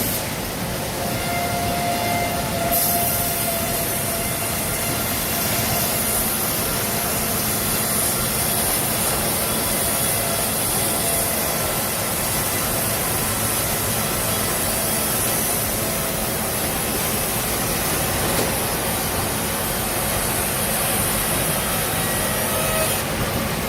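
Sawmill machinery running, with saws cutting logs: a steady, dense mechanical noise with faint steady whine tones in it.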